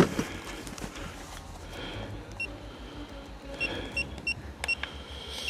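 Crashed DJI Neo 2 drone sounding its locator beeps: short high beeps, about six at uneven spacing from about halfway through, the signal used to find a downed drone. A low steady rumble runs underneath.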